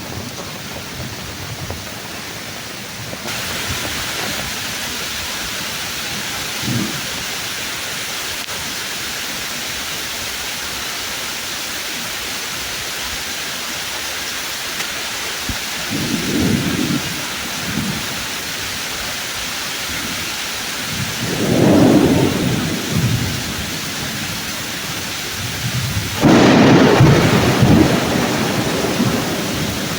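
Thunderstorm: steady heavy rain with thunder rumbling several times. The rain gets louder about three seconds in, and the loudest, sharpest thunderclap comes near the end.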